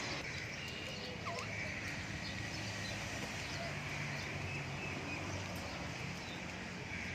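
Steady background hum and hiss of an aviary, with a few faint, brief chirps scattered through it.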